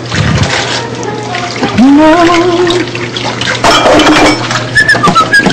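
Tap water running into a sink while dishes are washed. A voice holds a wavering sung note about two seconds in, and short high whistled notes come near the end.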